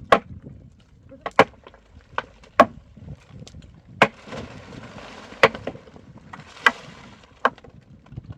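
Irregular sharp knocks of wood being struck, about nine blows, some close together. A hissing scrape runs under them from about four to seven seconds in.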